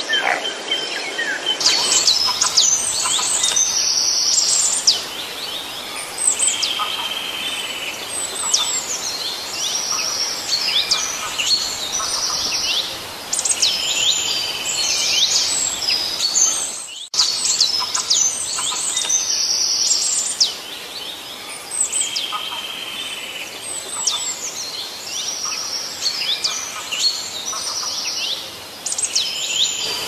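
Background birdsong: several small birds chirping and trilling in quick, high notes, with a brief dropout about halfway through.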